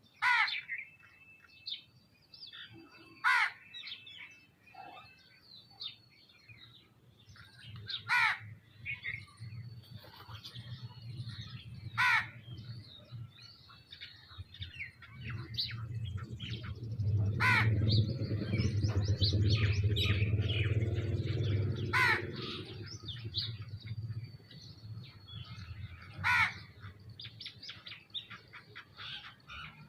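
Birds calling at a feeder: a loud, harsh call repeats about every four seconds over steady chirping from smaller birds. A low rumble rises in the middle and is the loudest sound for several seconds before fading.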